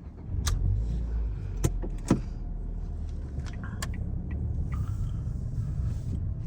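A 2011 Ford Fiesta 1.6 Zetec S engine running with a steady low rumble, heard from inside the car. The rumble comes up just after the start. A few sharp clicks sound over it, the loudest about two seconds in.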